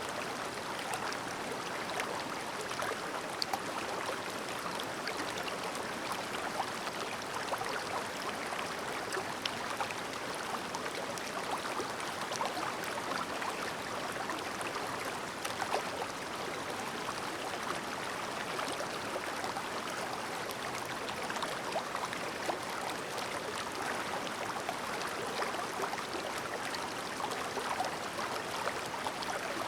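Clear stream babbling steadily, a continuous even rush of running water dotted with small trickling splashes.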